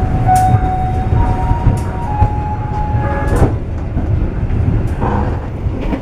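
Passenger train running, heard from inside an economy-class coach: a steady heavy rumble with scattered sharp clicks and knocks. A thin high tone wavers over it and stops about halfway through.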